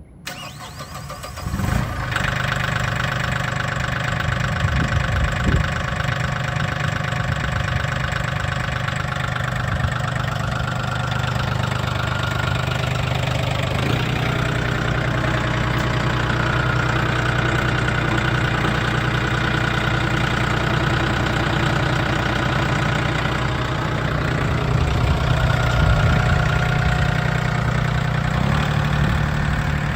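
Mahindra 1635 compact tractor's diesel engine starting up about two seconds in, then idling steadily, its note shifting slightly once or twice.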